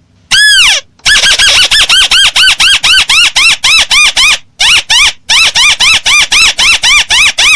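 Crake (burung tikusan) call played as a bird-trapping lure: one arched note, then a fast run of short rising-and-falling notes, about four a second, with two brief breaks, very loud.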